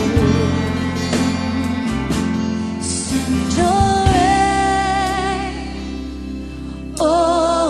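Worship song performed live: a singer holds long notes with vibrato over guitar and band accompaniment, and a new, louder sung phrase comes in near the end.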